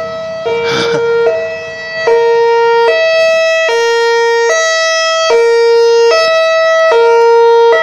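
An electronic warning siren alternating between a high and a low tone, switching a little more often than once a second, sounding for a tornado warning.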